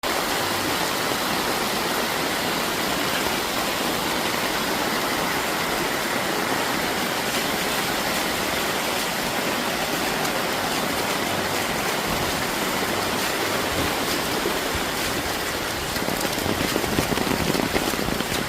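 Steady rain with running floodwater, an even hiss that grows louder and rougher over the last couple of seconds.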